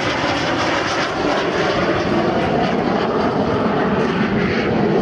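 Jet noise of Aermacchi MB-339 PAN aircraft flying past, from their Rolls-Royce Viper turbojets: a steady, loud rushing roar that grows slightly louder after a couple of seconds.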